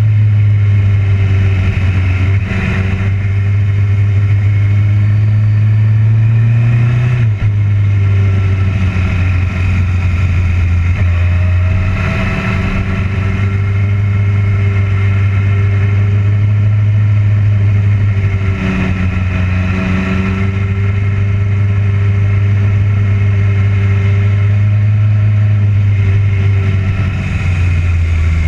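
Motorcycle engine running under way at close range, a steady low note that steps down briefly about seven seconds in.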